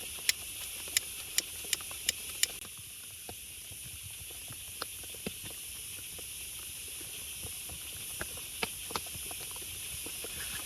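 Steady hiss of heavy rain, with scattered drips and light taps. In the first two and a half seconds, six sharp high clicks come in quick succession, a little under half a second apart.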